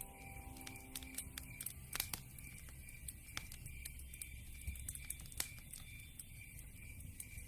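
Wood fire crackling: irregular sharp pops and snaps from burning logs, a few louder than the rest, over a low rumble of the flames.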